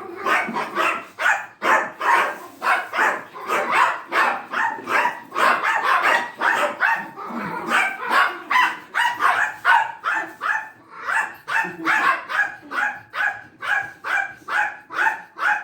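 Dog barking repeatedly and without pause, about three barks a second: excited barking at being asked to go for a walk.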